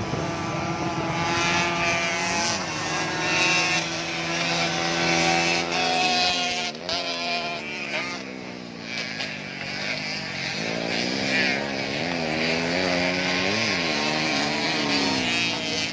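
Yamaha YZ85 two-stroke motocross bikes racing, several engines revving at once and overlapping. Their pitch falls in a long sweep about seven seconds in, then climbs again and keeps wavering up and down as the riders shift and throttle.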